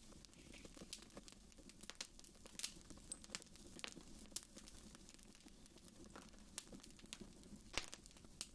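Wood fire burning in a fireplace: soft, irregular crackles and snaps over a low steady rumble of the flames, with sharper pops about two and a half seconds in and again near the end.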